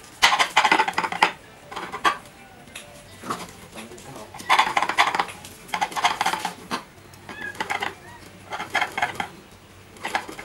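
A kitchen knife slicing through grilled pork ears and face on a cutting board, in several short spells of quick sawing strokes with pauses between.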